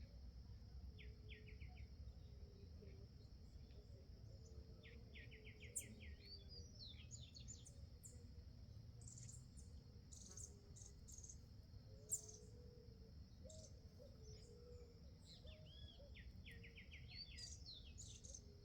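Faint songbird calls: a trill of quick repeated notes about a second in, another around five seconds in and again near the end, with scattered high chirps between. A steady high whine runs underneath, and there are two sharp clicks, the louder about twelve seconds in.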